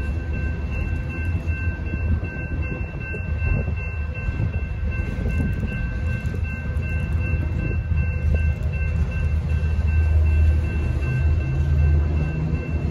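Freight cars of a manifest train rolling through a grade crossing: a steady low rumble of wheels on rail, a little heavier near the end. Over it runs the crossing signal's bell, heard as steady high ringing tones.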